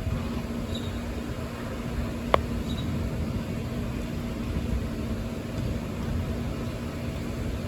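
Severe thunderstorm: steady rain and wind noise with a low, uneven rumble of thunder. A single sharp click sounds about two seconds in.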